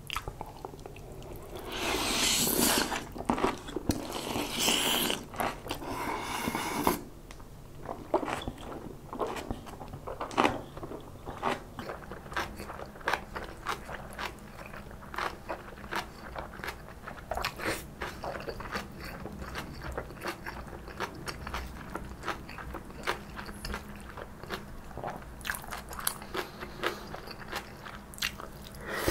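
Close-miked chewing of soft tofu and stir-fried cabbage kimchi, with the kimchi crunching crisply. The chewing is loudest and densest in the first several seconds, then goes on as a run of small sharp crunches.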